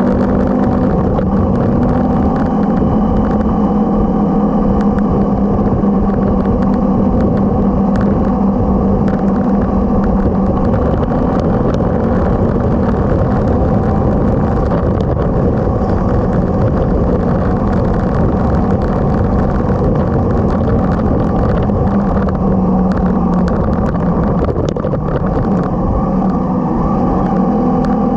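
Motorcycle engine running at a steady, even pace under way, its pitch holding nearly constant over a low rumble.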